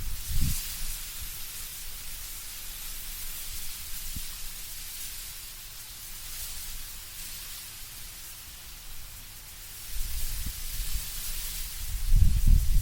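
Wind moving through autumn trees with leaves rustling, a steady hiss that swells and eases gently. A low, gusty rumble comes in at the start and again near the end as the wind picks up.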